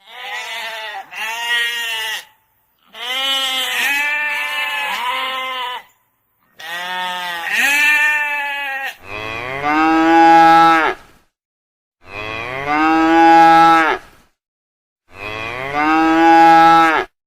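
Cattle mooing, a series of separate calls with short gaps between them; the first few waver in pitch, and the last three are long, steady, lower and louder.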